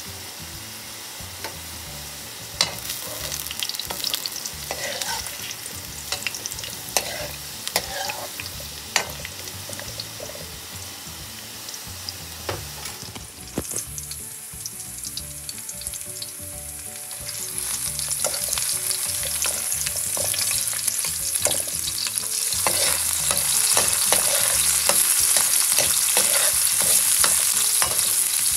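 Potato and carrot chunks frying in hot oil in a metal wok, with sharp clicks and scrapes of a spatula against the pan. After a cut about 13 seconds in, minced garlic and onion sizzle in oil, growing louder from about 18 seconds in as they are stirred.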